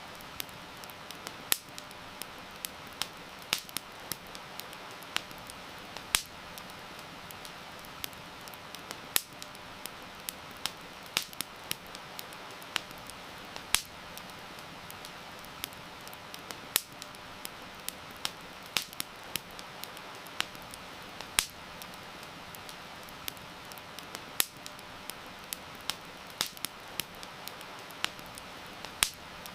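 Campfire crackling, with irregular sharp pops several times a second, a few much louder than the rest, over a steady hiss of heavy rain.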